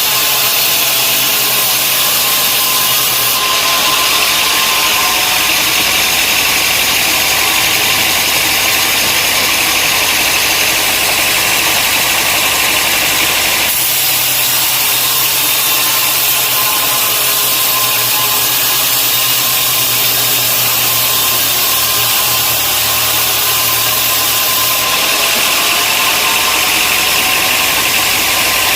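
Sawmill machinery running steadily: a loud, even mechanical drone with a faint whine. Its tone changes abruptly three times, as if separate takes were joined.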